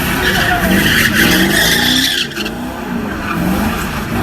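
Car engine revving up and down while the tyres squeal in a burnout; the squeal stops a little over two seconds in while the engine keeps running.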